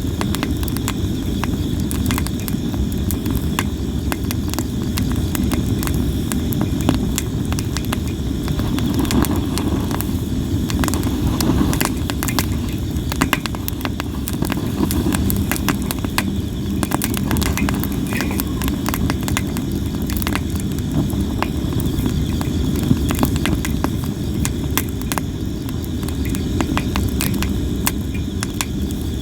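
Sawara cypress firewood burning on a fire pit, crackling and popping constantly with many sharp irregular snaps, over a steady low rumble. Insects chirp steadily in the background.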